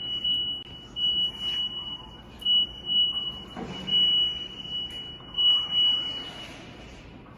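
High-pitched electronic beeper on a Cat 2ET4000 forklift sounding in about five beeps of uneven length, each a single steady tone. A short rushing burst comes near the middle.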